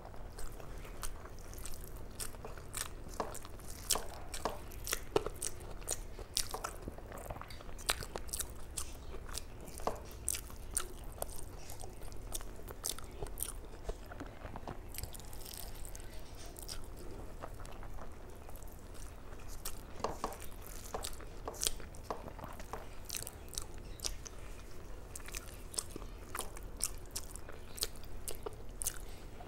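A person eating rice and curry close to the microphone: steady chewing and biting, with many irregular sharp mouth clicks.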